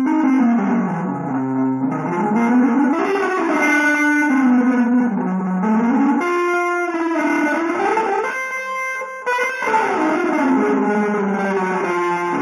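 Electric guitar playing a continuous, free-jazz style melodic line, its notes gliding smoothly up and down in long phrases.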